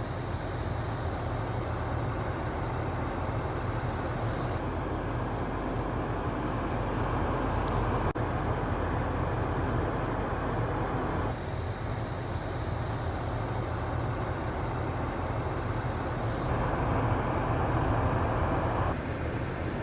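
Car defroster blower fan blowing air onto the windshield while the engine idles, a steady rushing with a low hum underneath. The rush grows louder and softer in steps a few times, around a third, half and four-fifths of the way through.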